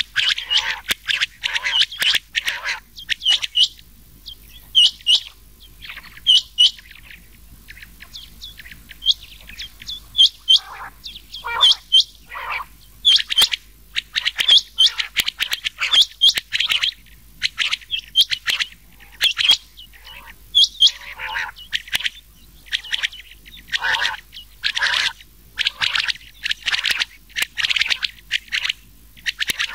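Rain quail calls mixed with quail calls, short sharp notes repeated quickly in clusters with no gaps. It is a recorded quail call made for luring quail when hunting.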